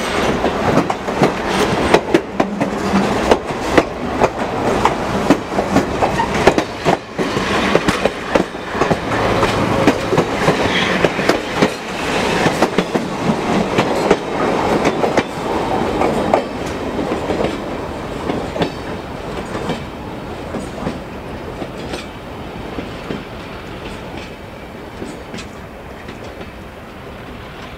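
Railway passenger cars and a caboose rolling past close by, their steel wheels clattering in quick irregular clacks over the track. The clatter fades steadily once the end of the train has passed, about halfway through, as it rolls away.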